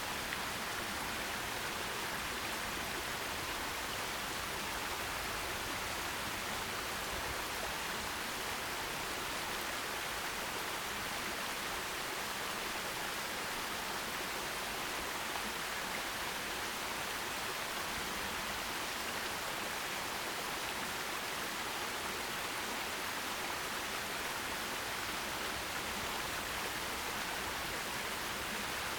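Forest stream running over rocks: a steady, even rush of water with no breaks.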